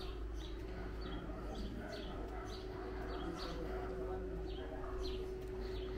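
Small birds chirping, short repeated chirps about twice a second, over a steady hum.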